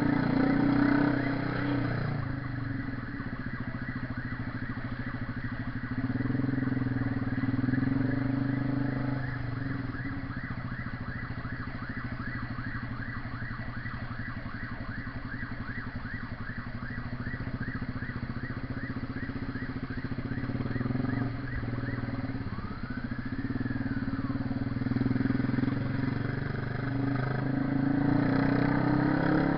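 Honda CB 300R's single-cylinder engine running under way, with the engine getting louder for a stretch about six seconds in and again near the end.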